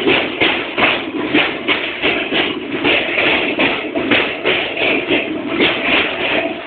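Express train running over a steel truss bridge, seen from an open door: a steady rhythmic clatter of the wheels on the bridge track, beating about three times a second, mixed with the rush of the girders going past.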